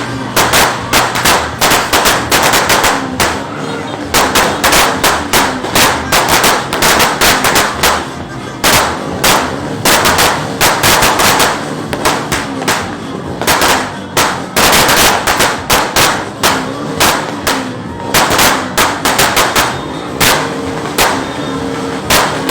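Firecrackers and fireworks going off in a continuous barrage of sharp bangs, several a second.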